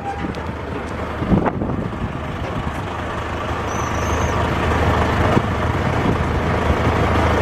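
Road traffic: a heavy vehicle's engine running with a steady low rumble, growing gradually louder in the second half.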